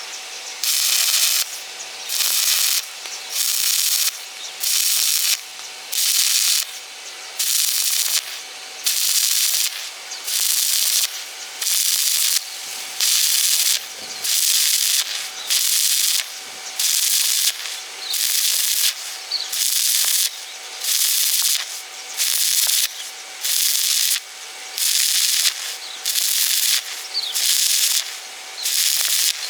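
Rhythmic rasping strokes of a hand tool working a hard surface, about one stroke a second, each lasting a little over half a second with short pauses between, in the manner of hand sawing or filing.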